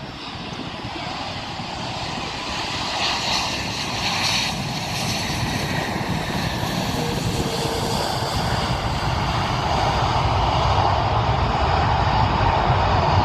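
Airplane engines running and growing steadily louder as the aircraft comes closer.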